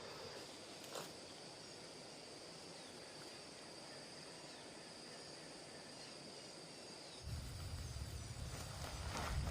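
Rural outdoor background with a steady high insect drone over a faint hiss, and a short click about a second in. About seven seconds in, a low rumble sets in and builds, with rustling near the end.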